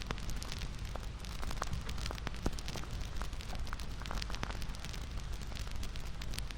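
Wood fire crackling: a steady low rumble and hiss with frequent, irregular pops and snaps, one a little louder about two and a half seconds in.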